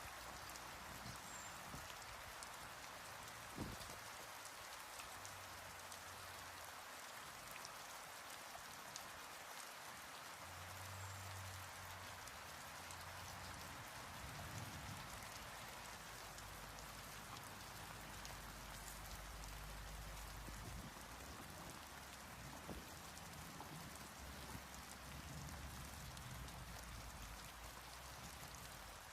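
Steady light rain, an even hiss, with faint low rumbling underneath.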